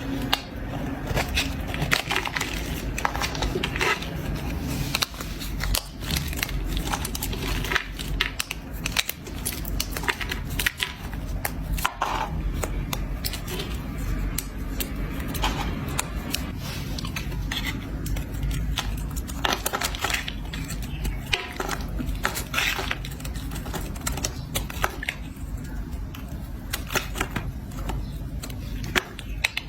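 A blade scraping and cutting into a bar of soap, with many crisp, irregular crackling clicks.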